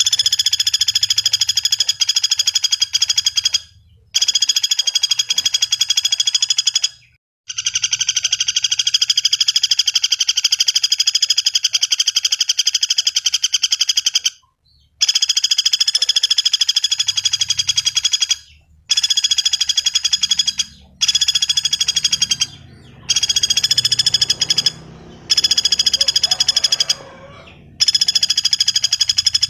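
Pelatuk bawang woodpecker calling in long, fast trills, each lasting a few seconds, broken by short pauses about nine times.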